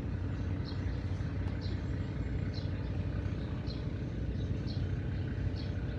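Steady low engine rumble with a short, high chirp repeating about once a second.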